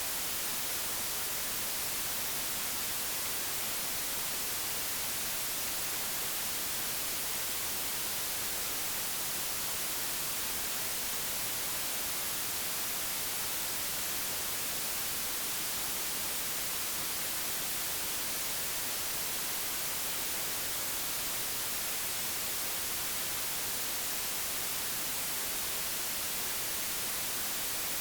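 Steady digitally generated white noise, an even hiss that does not change.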